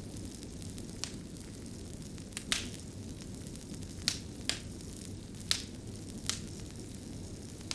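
Crackling fire: a steady low rush of flame with sharp, separate pops about once a second.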